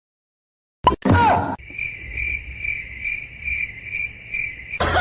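A short loud sound about a second in, then a cricket chirping steadily, about two to three chirps a second, for about three seconds.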